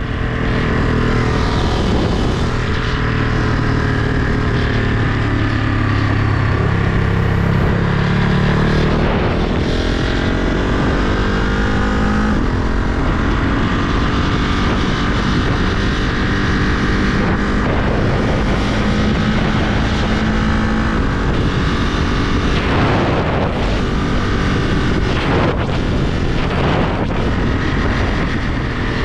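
Ducati Monster 937's L-twin engine under way, its pitch rising as it accelerates through the gears a few seconds in, then running more steadily at cruise, with wind noise on the microphone throughout.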